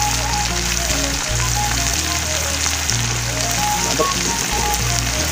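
Shredded wild mushrooms sizzling steadily as they fry in oil in a pan over a wood fire, under background music with held bass notes and a simple melody.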